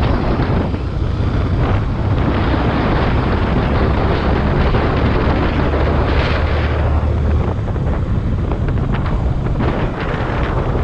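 Wind buffeting the action camera's microphone on a moving motorcycle, over the low hum of the engine, which eases about seven seconds in.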